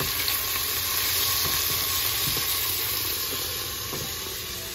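Diced onions and tomatoes sizzling in hot oil in a stainless steel pot while being stirred with a wooden spoon, with a few soft scrapes of the spoon.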